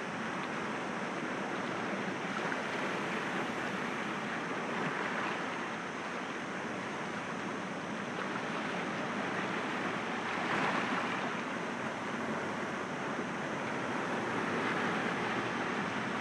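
Sea waves breaking gently against rocks: a continuous wash of surf that swells a little louder three times, about every five seconds.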